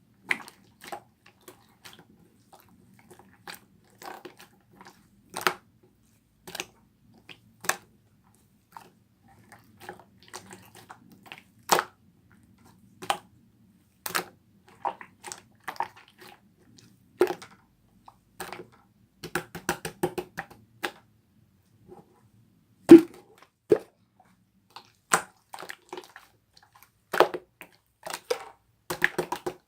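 Green slime being pressed and squeezed by hand, making scattered sharp clicks and pops with soft squishes, and a quick run of crackles about two-thirds of the way through.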